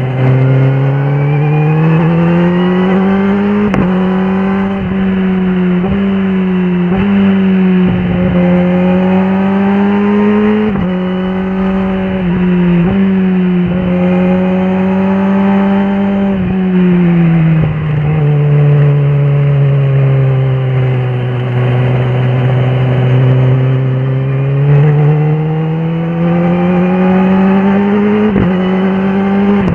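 Kawasaki ZX-10R SE's inline-four engine under way, pulling up through the revs in a string of short runs, each cut off by a quick gear change. Around the middle it eases off to a lower, steady hum, then climbs again toward the end with one more shift.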